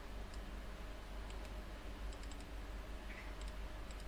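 Faint, scattered clicks from a computer mouse and keyboard being worked, a dozen or so irregular clicks over a low steady hum.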